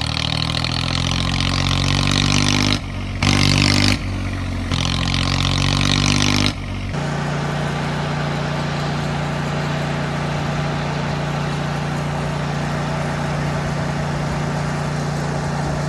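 Vehicle engine revving with rising pitch in short sections that cut off abruptly, then running at a steady, even hum for the last half.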